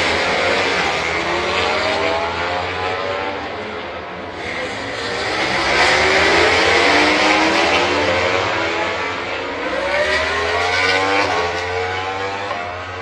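MotoGP racing motorcycles' engines at racing revs, several bikes heard at once, their notes rising and falling in pitch as they accelerate and brake. It swells loudest about six seconds in and again around ten to eleven seconds.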